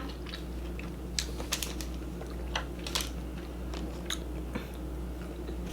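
Close-miked chewing and mouth sounds: scattered short, sharp clicks and smacks of someone eating, about a dozen spread irregularly, over a steady low hum.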